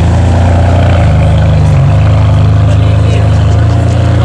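Car engine running steadily at low revs, a loud, deep, even hum with no rise or fall in pitch.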